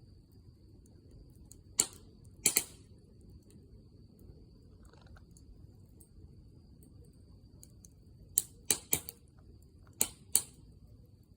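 Wood fire crackling: about seven sharp pops, two about two seconds in and a quick run of five in the last three seconds, over a low steady hiss.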